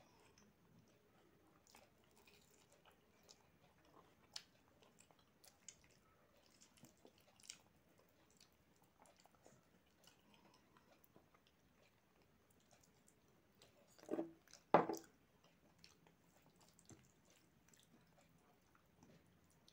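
Faint close-miked chewing and wet mouth sounds of a person eating rice mixed with dal and fried eggplant by hand, with soft scattered clicks of fingers and food. About three-quarters of the way through comes a louder pair of mouth sounds.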